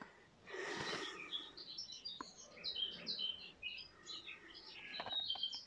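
Small birds chirping: a quick, jumbled run of short high notes, after a brief hiss about half a second in.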